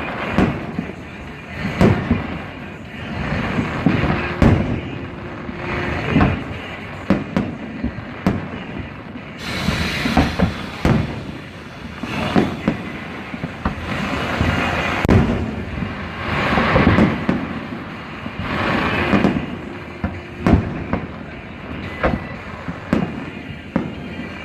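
Fireworks going off without a break: many overlapping bangs and booms at irregular intervals, several a second, over a steady crackling hiss.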